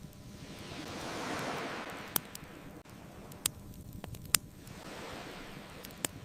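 Ocean waves: one surges up and washes back out, then a smaller one follows. Over them are several sharp pops from a crackling wood fire.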